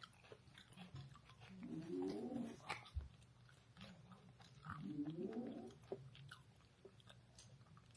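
Two long closed-mouth "mm" hums of approval, each about a second long, one a couple of seconds in and one past halfway, over faint wet chewing clicks from eating coleslaw.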